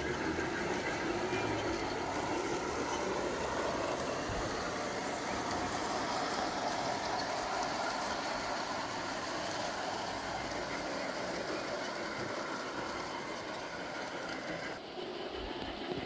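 G-scale garden railway model train running on its track: a steady rolling and motor noise, which changes abruptly near the end.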